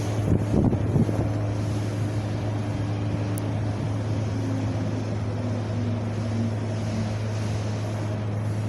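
Wind blowing steadily over a constant deep low hum, with a couple of brief gusts about a second in and a faint whistle that steps down in pitch through the middle.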